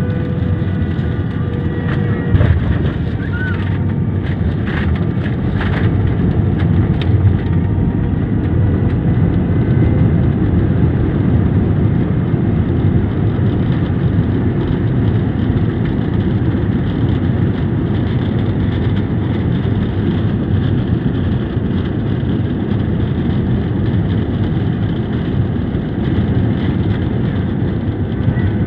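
Steady, loud rumble of an airliner landing, with a few short clicks or knocks in the first several seconds.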